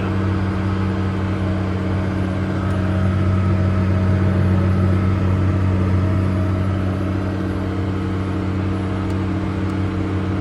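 Case 385 tractor's turbo-diesel engine running steadily under load, a deep even drone that swells slightly a few seconds in.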